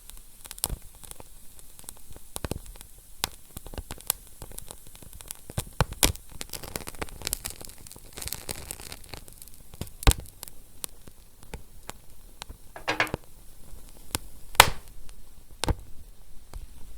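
Wood fire crackling: irregular sharp pops and snaps over a soft steady hiss, with a brief hiss about three-quarters of the way in.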